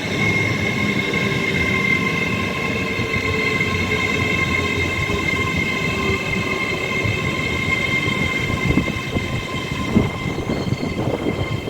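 Avanti West Coast Class 807 seven-car electric train pulling into the platform: a rumble of wheels on rail with a steady high-pitched whine.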